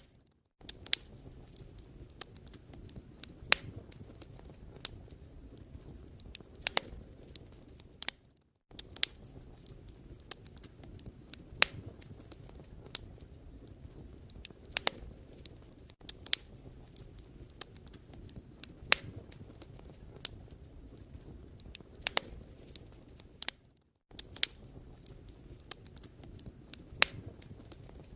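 Wood fire burning in a fireplace: a steady low hiss of flames with irregular sharp crackles and pops, several of them loud. The sound fades out and back in twice.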